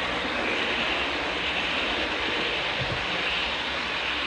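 A train passing at speed: a steady rushing noise with a low rumble underneath.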